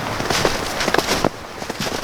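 Footsteps pushing through brush and dry leaves, with twigs crackling and snapping underfoot in quick, irregular clicks that thin out a little after the first second.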